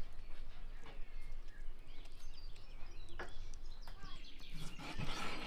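Small birds chirping, with short crunching clicks from a tabby cat chewing its food in the grass. A louder rustle comes near the end.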